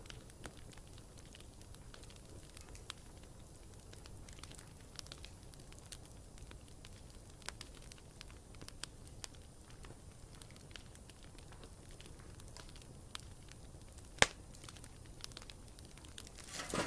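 Wood campfire crackling, with scattered small pops over a low steady hiss and one sharp loud pop about fourteen seconds in. A brief louder run of crackles comes near the end.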